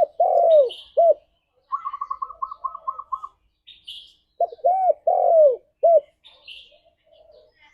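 Spotted dove cooing: two phrases of deep, arched coo notes, with a quick run of about ten short, higher notes between them.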